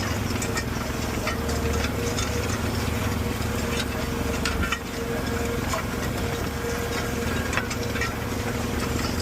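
Steady engine drone from the Fendt 1050 Vario tractor pulling a cultivator through the field and the quad bike following it, with scattered short clicks and rattles.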